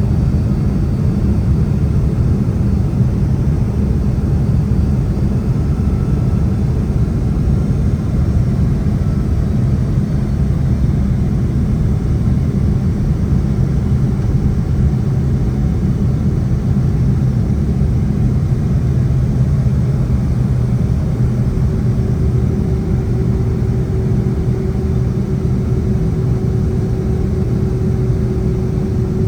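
Steady low rumble of engine and airflow noise inside the cabin of a Boeing 767-300 airliner descending to land. A faint steady hum joins in about two-thirds of the way through.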